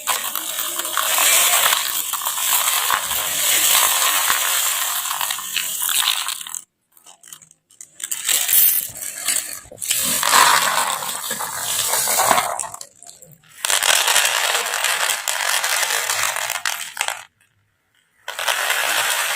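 Rapid, dense mechanical clicking or ratcheting, in stretches of several seconds with brief silent breaks.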